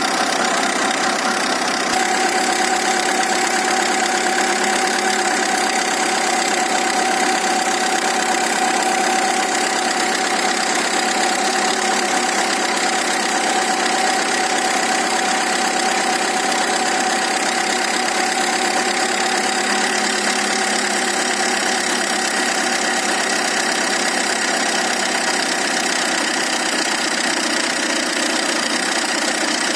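Tata Indigo CS engine idling steadily.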